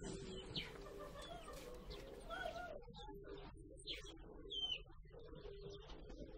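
Birds chirping and calling in the background: a few short rising and falling calls over faint ambient noise.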